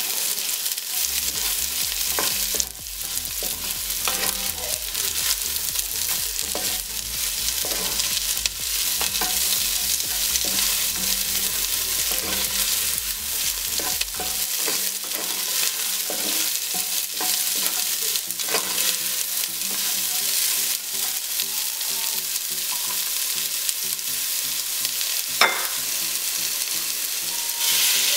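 Diced onion, garlic and ginger sizzling in hot oil in an enamelled pot, with a wooden spatula stirring and scraping against the pot's bottom in many short strokes. One sharper knock of the spatula comes near the end.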